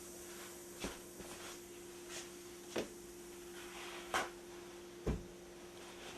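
Handling noises: a few light knocks and rustles spread over several seconds, over a steady low hum.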